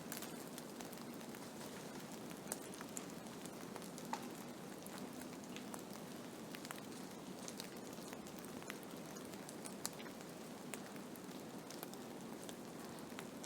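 Blizzard: a steady rushing of wind and snow, with scattered light ticks of particles striking a surface.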